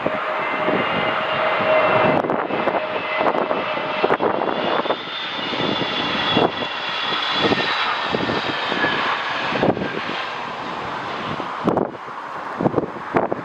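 Jet airliner's engines going past, a broad rush with several high whining tones that drop slightly in pitch. Gusts of wind buffet the microphone in short thumps throughout.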